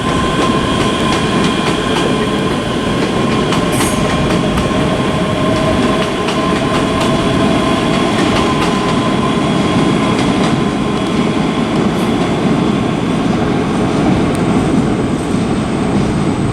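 Two coupled Class 385 electric multiple units pulling away. A steady rumble of wheels on track runs under a traction motor whine that slowly rises in pitch and fades after about ten seconds, with scattered clicks over the rail joints.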